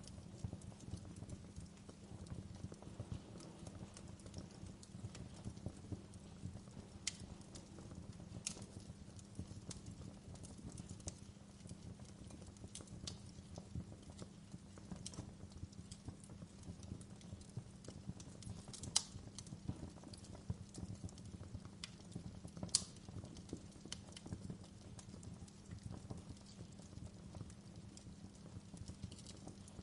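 Wood fire crackling in a fireplace: a steady, dense low crackle with scattered sharp pops, two louder pops about two-thirds of the way through.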